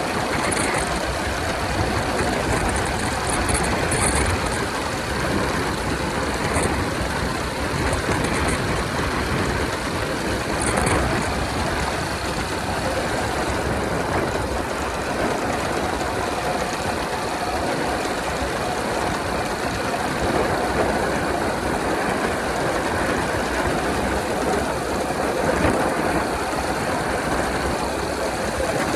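Honda 125 motorcycle running steadily at highway speed, its engine under a constant rush of noise.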